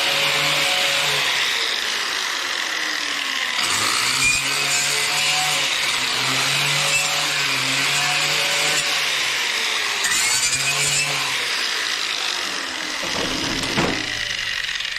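Angle grinder with a wire brush scrubbing rust and old paint off a cast-iron tractor front weight. Its motor pitch sags and recovers again and again as it is pressed into the work, then it runs down with a knock near the end.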